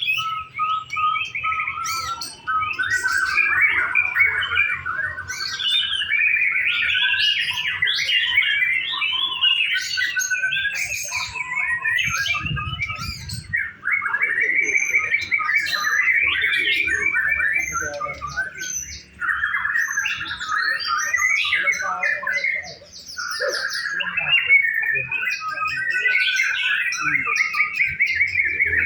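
A white-rumped shama (murai batu) singing almost without a break: a long run of varied, fast trilled phrases, with only a few brief pauses.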